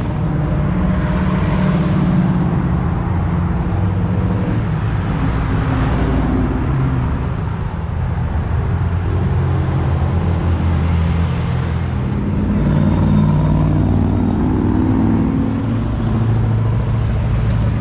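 Motor vehicle engine running continuously, its pitch rising and falling several times as the revs change.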